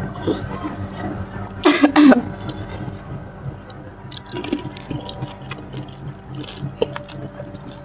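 A person eating pani puri: wet squishing and slurping of the water-filled puris, with two short loud sounds about two seconds in.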